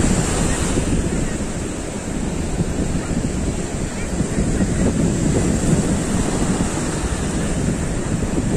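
Sea waves breaking on the shore, with wind buffeting the microphone in a steady, rough noise.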